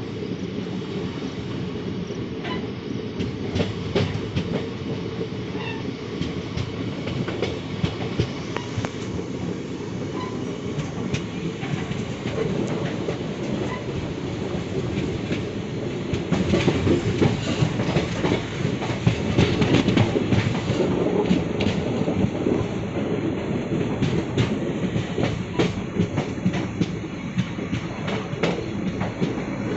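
Train running along the track, its wheels clacking over the rail joints in a steady rumble that grows louder about halfway through.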